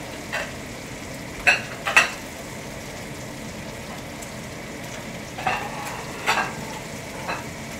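Chicken frying in a stainless steel pan, sizzling steadily, with a handful of sharp clinks and knocks of plates being taken out, the loudest about a second and a half and two seconds in.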